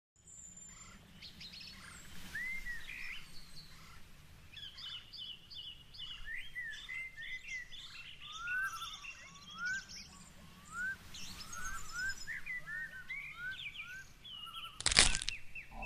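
Several birds chirping and singing over a steady low outdoor rumble, with one brief loud noise near the end.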